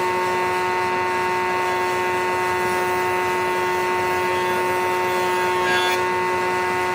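A machine's electric motor running at a steady speed, a constant hum of several fixed tones.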